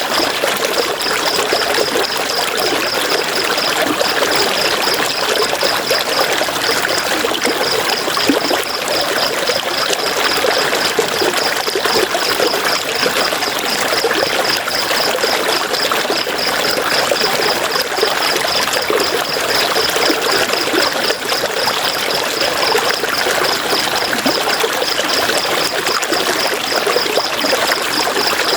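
River water rushing and splashing steadily. Over it runs a high, fast pulsing chirp that pauses briefly a few times.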